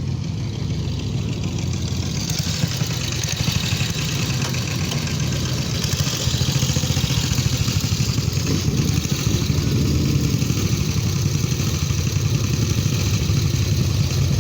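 Lotus V6 sports car's engine running at low revs as it sets off, a steady low exhaust note that grows somewhat louder about halfway through.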